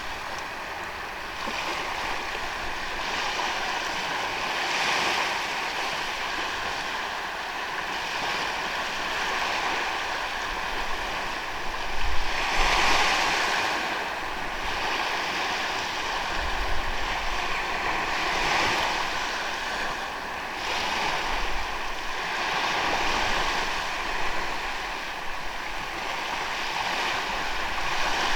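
Sea waves breaking and washing up on a sandy beach, the surf swelling and ebbing every few seconds, with the biggest surge about twelve seconds in.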